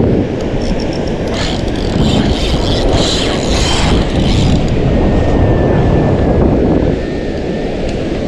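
Wind buffeting the microphone as a loud, steady low rumble, with gusts of hiss from about one to four seconds in.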